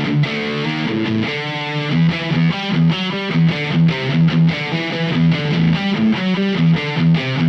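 Fano Omnis MG6 electric guitar played through an LPD Eighty7 drive pedal with the gain set very high: heavily distorted riffing, chugging on a repeated low note from about two seconds in.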